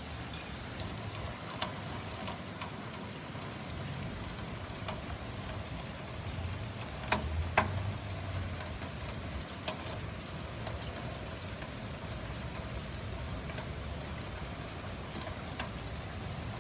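Steady rain hissing, with scattered drops tapping sharply on a surface; two louder taps about seven seconds in.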